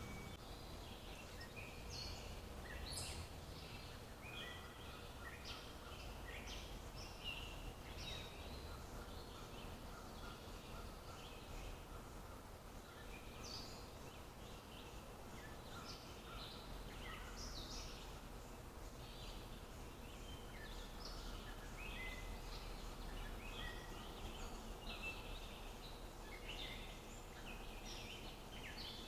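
Several birds calling and singing at once, a steady stream of short chirps and whistled notes, over a faint low background rumble.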